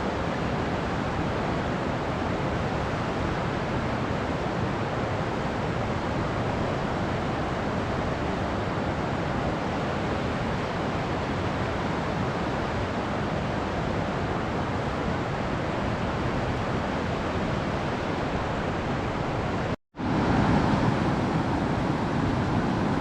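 River rapids rushing, a steady wash of running water. It breaks off for an instant near the end and comes back a little louder and deeper.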